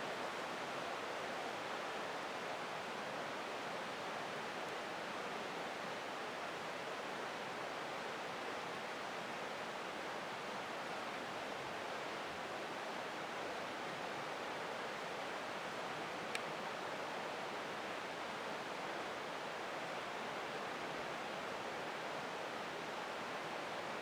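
Creek water running: a steady, unbroken rushing hiss. A single faint tick sounds about 16 seconds in.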